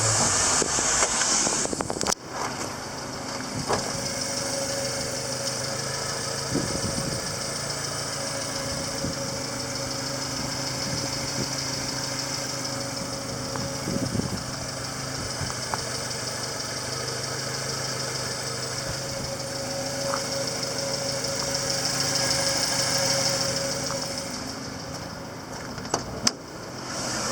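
1994 Subaru Sambar mini truck's 660 cc four-cylinder engine idling steadily. There is a louder hissing rush in the first couple of seconds and a few light knocks.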